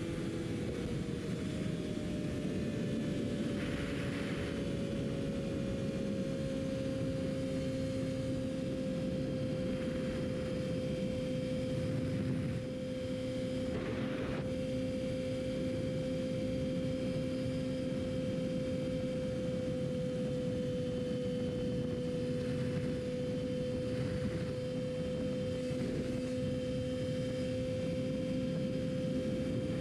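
Yamaha R6 inline-four sport bike engine holding steady revs at a cruise, one even high engine note that eases down a little in the first few seconds and then stays level, over a steady rush of wind and road noise.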